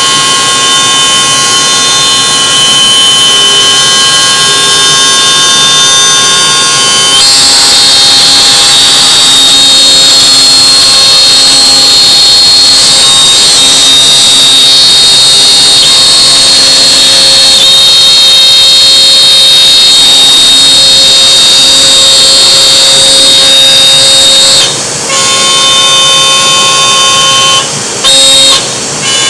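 CNC router spindle running at high speed with a loud, steady whine. It turns brighter about seven seconds in and briefly drops out twice near the end.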